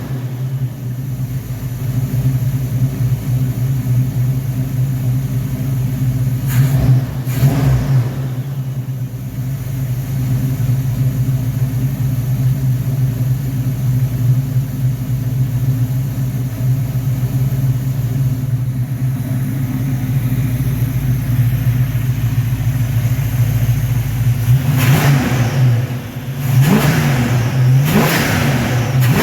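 Car engine running on a freshly rebuilt Rochester Quadrajet four-barrel carburetor. It idles steadily, with a brief rev about seven seconds in and a few quick revs near the end.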